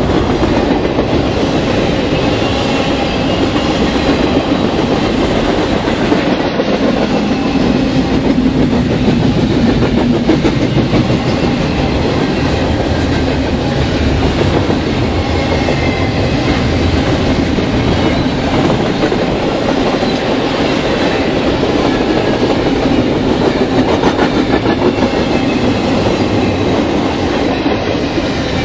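Double-stack container well cars of a BNSF intermodal freight train rolling past: a steady loud rumble of steel wheels on rail with a continuous clickety-clack.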